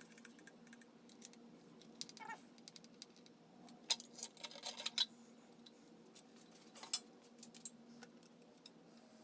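Scattered metallic clinks and clicks of tools and small engine parts being handled during an engine teardown, with a quick cluster of sharp clinks around four to five seconds in and another near seven seconds, over a steady low hum.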